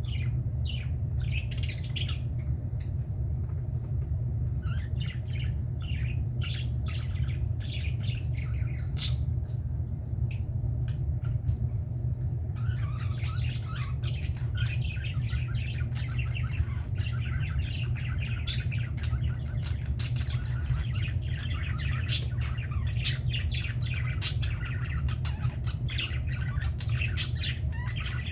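Budgerigars chirping: scattered short calls at first, then from about halfway a dense, continuous warbling chatter of several birds, over a steady low hum.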